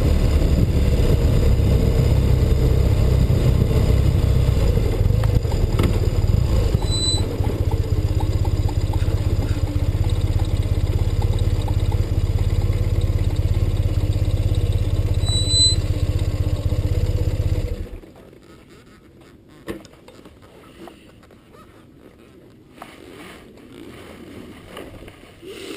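A 1984 BMW R100RS motorcycle's air-cooled flat-twin engine running steadily at low revs, then switched off about eighteen seconds in, leaving only faint small knocks and rustles. Two brief high beeps sound while it runs.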